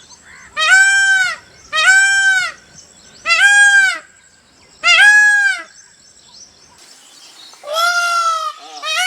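Indian peafowl (peacock) calling: four loud calls about a second apart, each arching up and down slightly in pitch. After a pause of about two seconds comes a fifth, longer call near the end.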